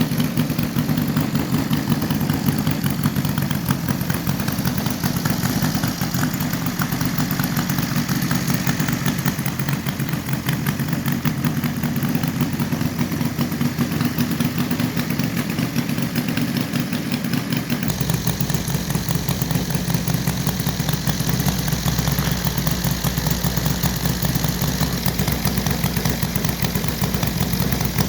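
Engine of a radio-controlled P-47 model warplane running steadily with a rapid pulsing beat, its tone shifting and the deep low end coming up about two-thirds of the way through.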